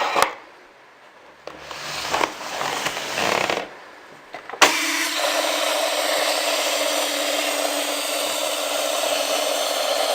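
Electronic sound effect from a Thunderbirds Tracy Island toy playset's speaker. A click and a couple of short noisy bursts come first. About halfway in, a steady rushing noise with a low hum under it starts suddenly and keeps going.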